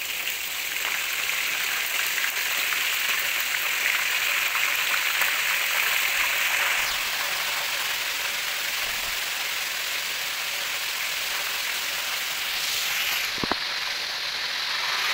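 Beef pieces deep-frying in a pan of hot oil: a steady sizzle and bubbling, with one short tap near the end.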